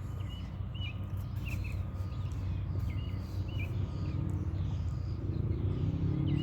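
A small bird chirping short, quick notes, several in a row about every half second, over a steady low rumble; a faint low hum rises in pitch in the second half.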